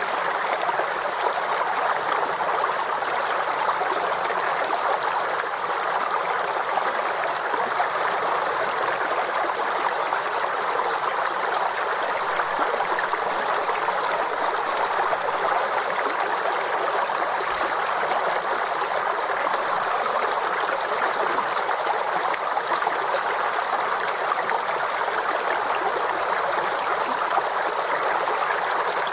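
A forest stream's water flowing and trickling steadily over rocks, with no breaks or changes.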